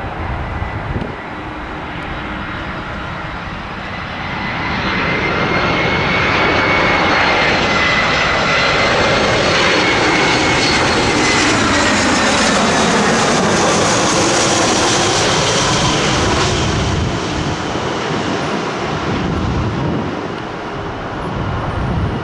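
An airliner's engines pass close by. The sound builds over several seconds into a loud rumble with a high whine, the whine drops in pitch as the aircraft goes past, and the sound then fades.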